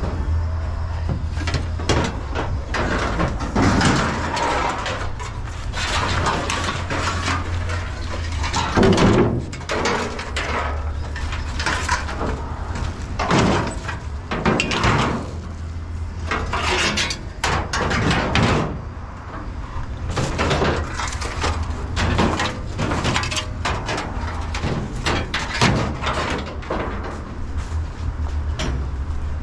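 Irregular knocks and clanks, some loud, over a steady low rumble.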